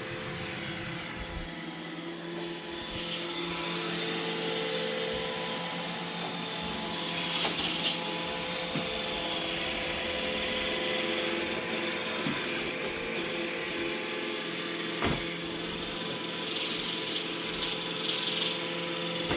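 iRobot Roomba E6 robot vacuum running: a steady hum from its motors and brushes, with a few sharp knocks as it bumps along.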